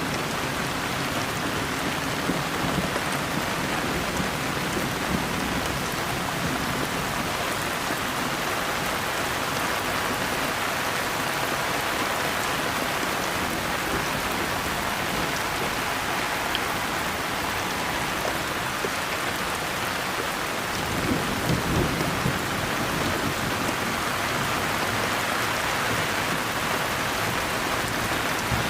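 Steady heavy rain falling, an even hiss of drops on surfaces. Low rumbles of distant thunder come in near the start and again about 21 seconds in.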